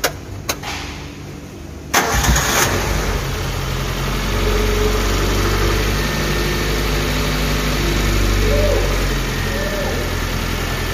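Two clicks, then about two seconds in the Suzuki APV's four-cylinder petrol engine cranks briefly on the starter and catches, settling into a steady, fast cold-start idle. It runs evenly on its newly replaced number-4 ignition coil, with no misfire.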